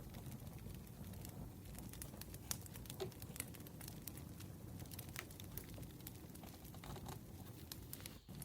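Wood fire crackling: irregular faint pops and snaps from burning logs over a low steady rumble, with a brief dropout near the end.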